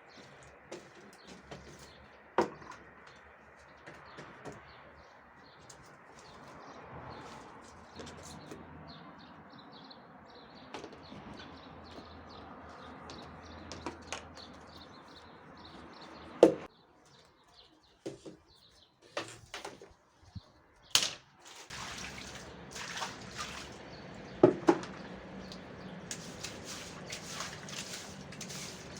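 Balcony cleaning sounds: several sharp knocks and clatters of things being handled and set down, then water and scrubbing noise over the last few seconds, with birds chirping in the background.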